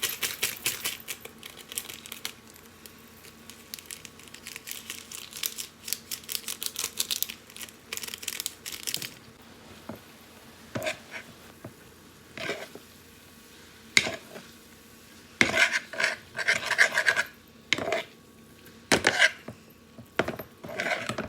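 An eating utensil clinking and scraping against a bowl as noodles are stirred and picked up: quick runs of small clicks at first and again partway through, then separate taps and short scrapes.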